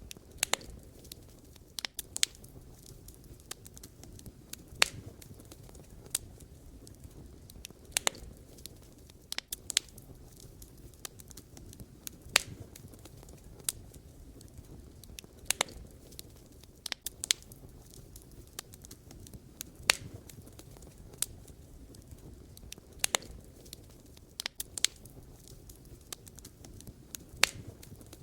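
Wood fire burning: a low steady rush of flame under irregular sharp pops and crackles of burning firewood, a few loud snaps standing out among many small ones.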